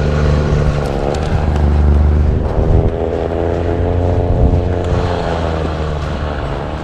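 Car engine revving hard, its pitch climbing for a few seconds and then easing off, as the car tries to drive out of deep snow.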